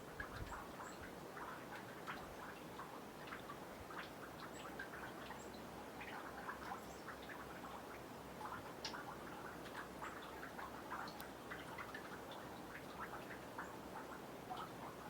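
Meltwater from melting snow dripping off a boardwalk into a nearly frozen pond: many small, irregular drips and ticks, several a second, over a faint steady background.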